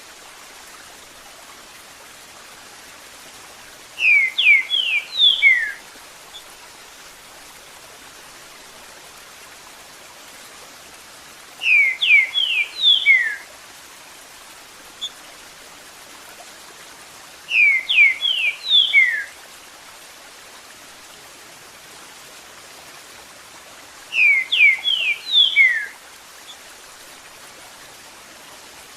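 Green-winged saltator (trinca-ferro) singing its 'Eu sou terrível' phrase four times, several seconds apart; each phrase is a quick run of about five short notes that slide downward. Under the song runs a steady hiss of trickling water.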